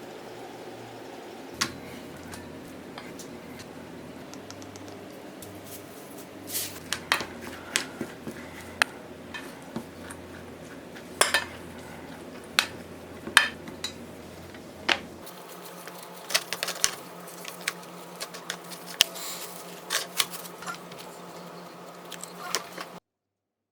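Kitchen utensils clinking and tapping against dishes in scattered sharp knocks, sparse at first and coming thicker through the second half.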